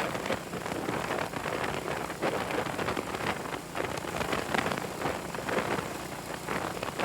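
Wind buffeting the microphone on a moving motorcycle: a steady rushing noise full of irregular crackles and gusts.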